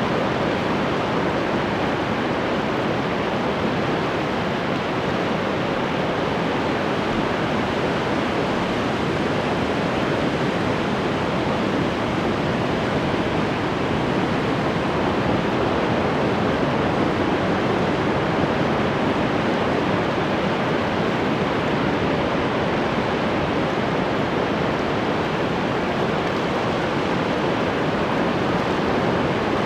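Ocean surf: a steady, dense wash of breaking waves with no distinct individual crashes.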